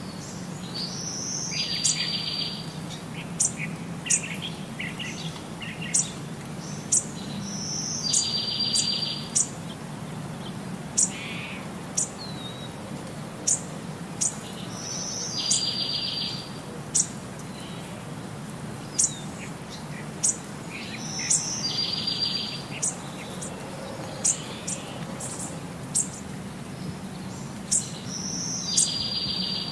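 Songbirds chirping: short sharp high chirps about every second, and a buzzy trill that comes back every six or seven seconds, over a low steady hum.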